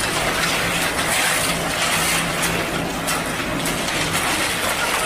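Heavy diesel construction machinery running steadily at a concrete roadworks, its low engine hum under a dense wash of scraping and rattling noise.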